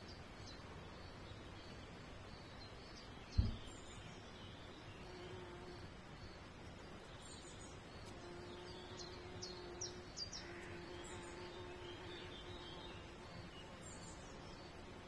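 Small birds chirping faintly with short high calls over an outdoor hush, with a faint steady hum setting in after about five seconds. A single low thump about three seconds in is the loudest sound.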